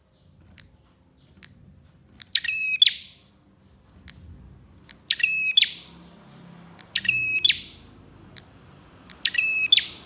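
Prenjak (prinia) calling: four short, loud bursts of rapid high notes about two seconds apart, with faint single chips in between.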